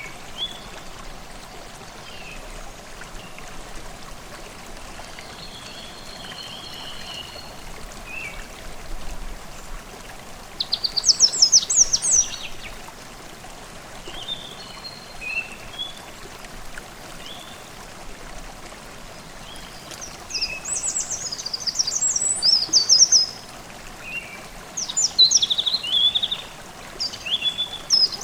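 Forest stream babbling steadily under songbirds. Short, quick bursts of high song come about eleven seconds in and again from about twenty seconds on, with fainter whistled calls between.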